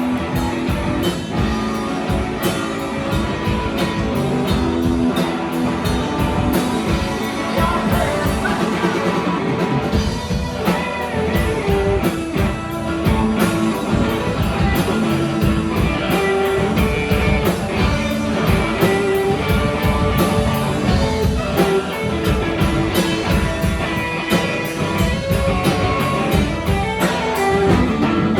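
A rock band playing a song: guitar and a drum kit keeping a steady beat.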